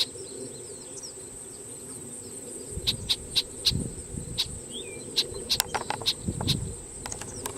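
Steady high-pitched drone of insects, with a few faint bird chirps. In the middle comes a quick series of about a dozen short, sharp ticks.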